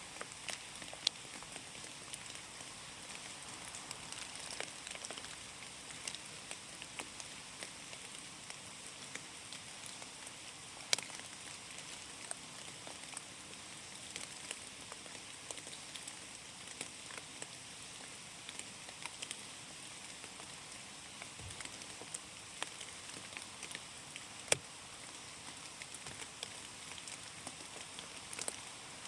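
Rain falling in a forest: a steady hiss of rain with many scattered drops ticking on leaves and the forest floor, a few of them louder single plinks.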